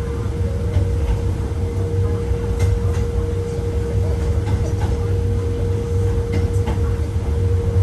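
Hakone Tozan Railway 1000-series electric mountain train running uphill, heard from on board: a steady low rumble of wheels and running gear with a constant hum, and scattered faint clicks.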